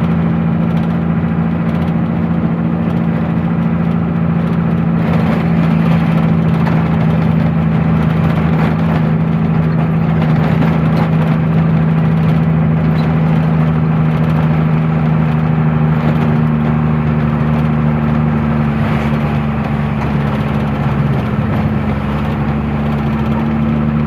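Truck engine running at a steady speed, with its pitch dropping a little near the end.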